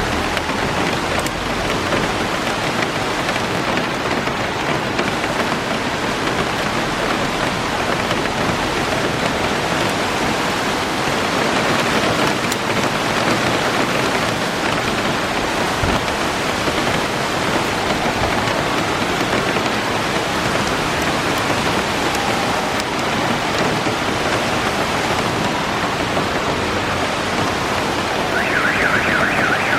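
Heavy rain pouring down steadily, a dense even hiss. Near the end a car alarm starts up with a fast warbling tone.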